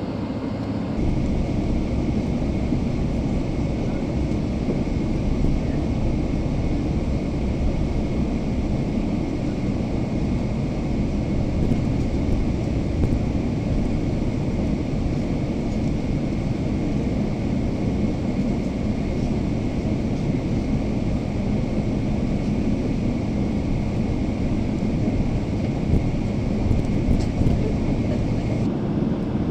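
Steady cabin noise inside a Boeing 777-300ER airliner: a low rumble and hiss with a faint steady whine. The sound steps up slightly about a second in, and the higher hiss drops away near the end.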